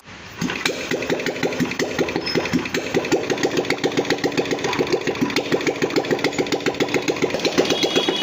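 Royal Enfield Bullet single-cylinder engine starting about a third of a second in, then running at idle with a steady, even thump. It has just had its magnet coil changed and has not yet been set up.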